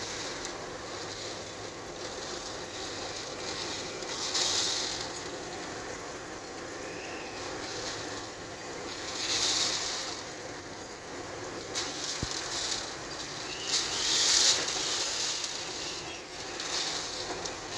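Severe thunderstorm wind and rain: a steady rushing noise, with gusts surging in about every five seconds and a sharp click about twelve seconds in.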